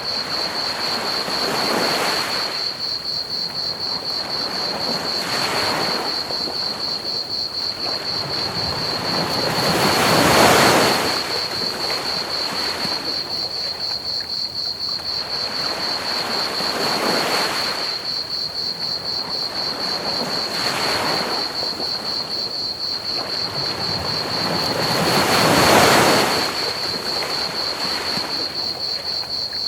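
Ocean waves breaking and washing up a beach, one swell every few seconds, the biggest about a third of the way in and again near the end. Under them, crickets chirp in a steady, rapid, high-pitched trill.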